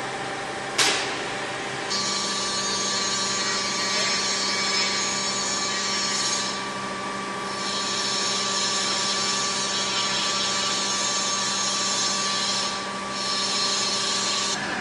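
A machine running with a steady hum and a high, even hiss that starts about two seconds in and briefly drops away twice, after a sharp click about a second in.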